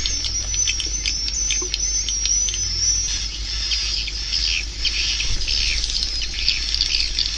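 Swiftlets twittering: a dense stream of rapid high-pitched chirps and trills, with a wavering high trill through the first three seconds, over a steady low hum. It is the kind of swiftlet call recording played through tweeters to draw swiftlets into a nesting house.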